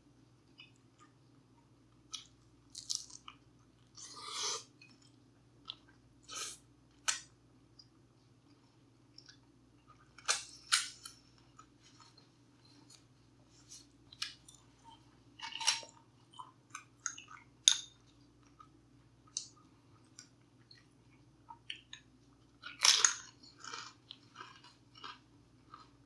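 A person eating close to the microphone: chewing with scattered crunches and wet mouth sounds, loudest in a cluster of crunches near the end.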